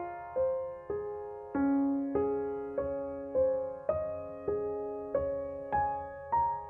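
Background piano music: single notes struck about every half second or so, each ringing and fading before the next.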